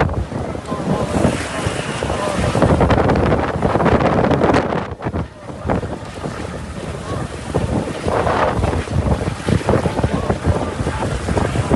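Heavy rain pouring down, a dense steady rush, with wind buffeting the microphone in gusts that swell and ease. There is a brief lull about five seconds in.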